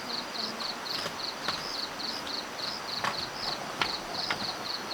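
Insects chirping steadily in short, high, pulsed chirps, about three a second, with a few scattered clicks or knocks.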